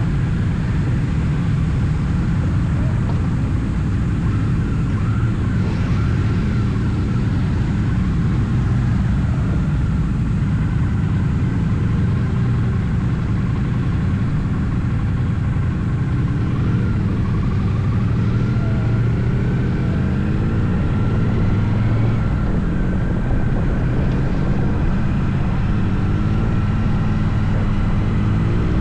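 Triumph Bonneville T100's parallel-twin engine running steadily at tollway cruising speed, heard from the moving motorcycle along with road and wind noise.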